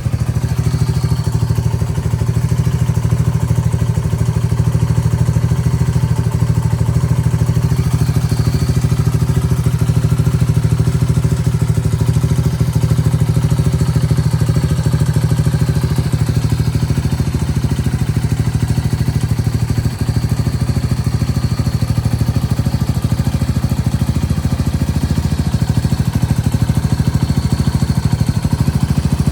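Yamaha TW200's air-cooled single-cylinder four-stroke engine idling steadily, with an even, unchanging note.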